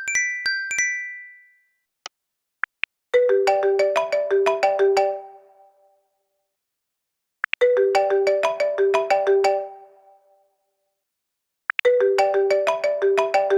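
iPhone ringtone preview: a quick run of bright notes played three times, each fading out, after a few short high tones and taps at the start.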